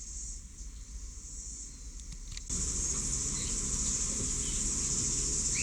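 Steady high-pitched insect drone in the background, like crickets; about two and a half seconds in, the background noise grows louder and fuller.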